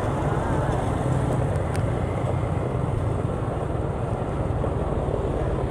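A vehicle on the move: steady low engine hum with road and wind noise.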